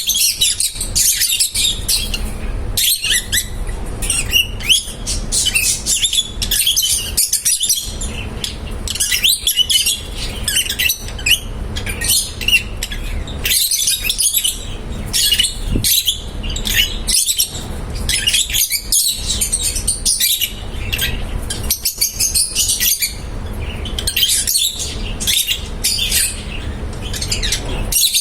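A flock of lovebirds chirping and chattering continuously, with many short, high, overlapping chirps and squeaks.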